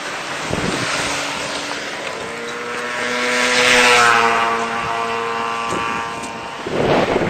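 A motor vehicle passing by: its engine drone swells to a peak about four seconds in and fades, its pitch dropping slightly as it passes. The audio plays at double speed, which raises the pitch.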